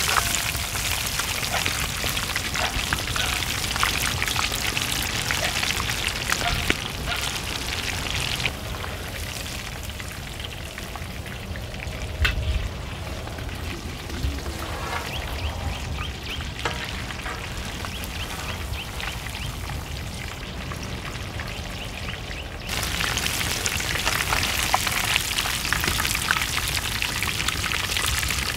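Chicken frying in hot oil: a steady sizzle dotted with small crackles and pops, quieter and duller through the middle stretch.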